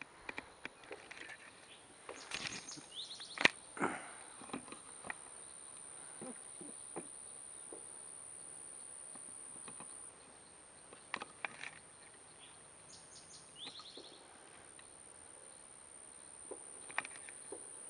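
Steady high-pitched insect trilling, like crickets, with scattered sharp clicks and knocks, the loudest about three and a half seconds in, and a couple of brief rising chirps.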